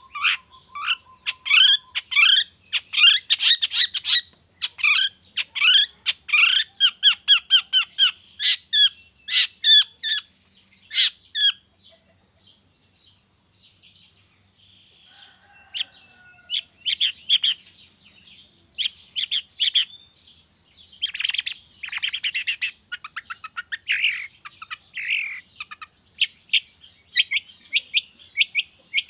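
Long-tailed shrike (cendet) singing a fast, varied song of rapid chirps and harsh squawking calls, with a sparser stretch in the middle before the song picks up again.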